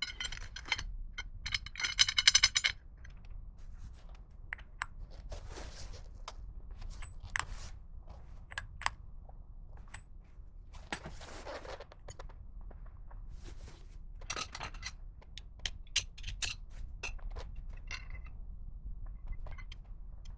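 Metal tools and parts clinking and rattling as they are handled, with a dense jingling rattle in the first three seconds and scattered sharp clicks and clinks after. A low hum runs underneath.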